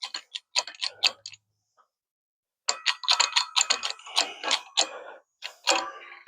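Ratchet wrench clicking as it turns the screw of a U-joint press on a driveshaft yoke. There is a short run of quick metallic clicks, a pause, then a longer, faster run and a few last clicks near the end.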